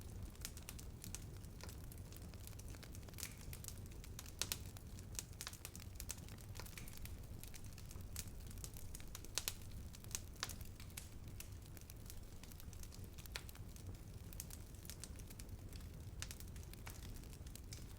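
Wood fire burning: irregular sharp crackles and pops, a few louder ones about four and a half and nine and a half seconds in, over a steady low rumble of the flames.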